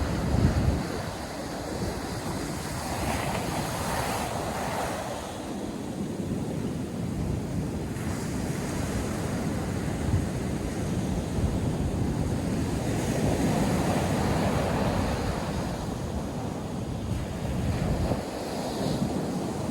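Ocean surf breaking and washing on a sandy beach, a continuous rushing noise with slow swells. Wind buffets the microphone with low rumbling gusts, strongest at the start and near the end.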